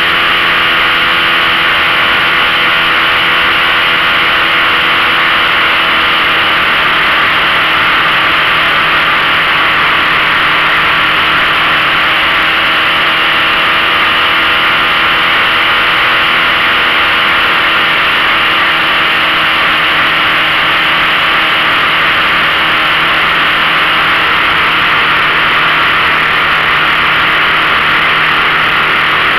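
15 hp outboard motor running steadily at one speed, its even drone over a broad hiss.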